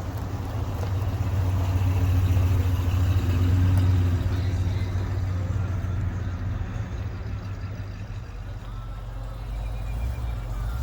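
A car's engine rumbling as it drives slowly past, growing louder for the first few seconds and then fading away.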